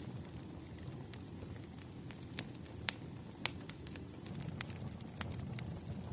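Wood fire burning in a fireplace: a steady low rumble of flames with irregular sharp crackles and pops from the burning logs, the loudest pops about a third and halfway through.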